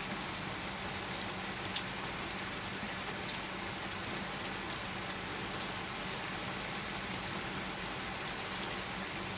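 Steady rain falling during a thunderstorm: an even hiss of rain with scattered individual drops ticking close by. No thunder is heard.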